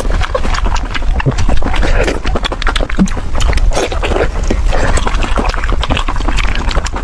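Close-up chewing of chicken heads: crunching of bone and cartilage with wet mouth smacking, over a steady low rumble.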